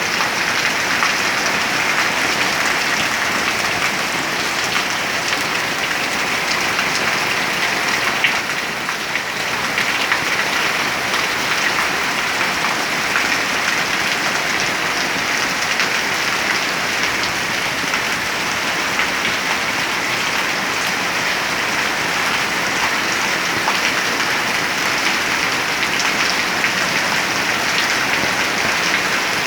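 Heavy rain falling steadily, a dense even hiss of drops, dipping slightly for a moment about eight seconds in.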